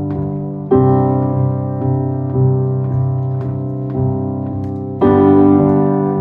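Piano playing a song's introduction: sustained chords in a steady rhythm, with a louder new chord struck about a second in and another near the end.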